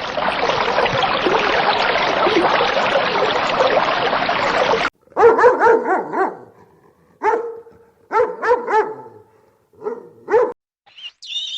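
A dense, noisy clamour for about five seconds, then a puppy barking in short high yaps, in quick clusters of two or three with pauses between.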